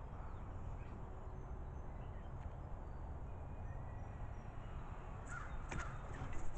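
Crows cawing, the loudest calls coming near the end, with faint high chirps of small birds over a steady low background rumble.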